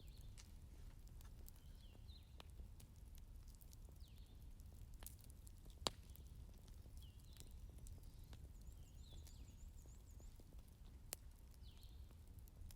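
Wood fire burning in a fireplace: faint, irregular crackles and pops over a low steady rumble, with one sharper pop about six seconds in and another near eleven seconds. Short, faint high chirps recur every second or so.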